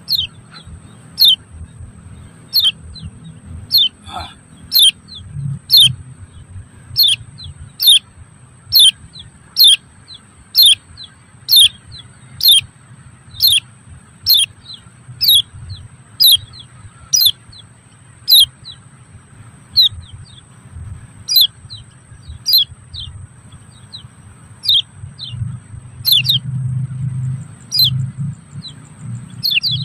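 A bird calling: one short, high chirp that sweeps downward, repeated steadily about once a second.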